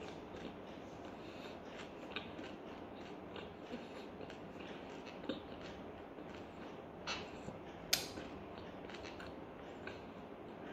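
Faint chewing and small mouth and handling clicks of a person eating pizza, with a sharper click about eight seconds in.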